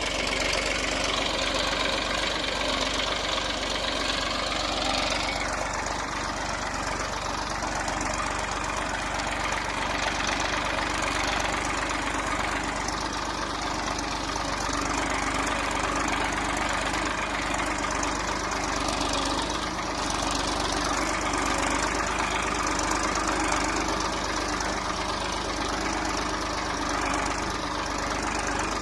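Massey Ferguson 241 DI tractor's three-cylinder diesel engine running steadily under load while pulling a five-tine cultivator.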